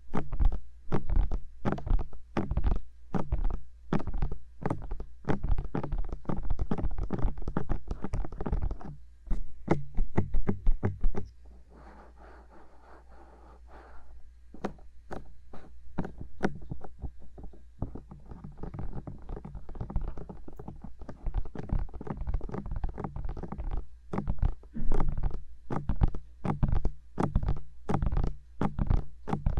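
Fingertips tapping quickly and irregularly on the silicone ears of a 3Dio binaural microphone, each tap a deep, close thud. About a third of the way in the tapping gives way for a few seconds to a softer, quieter rubbing, then the quick tapping resumes.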